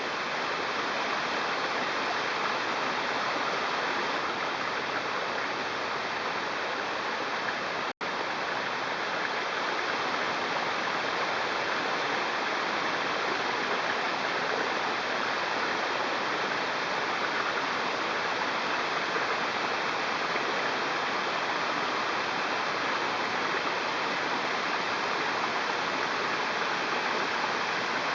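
Waterfall: the steady, unbroken rush of falling water, broken only by a split-second dropout about eight seconds in.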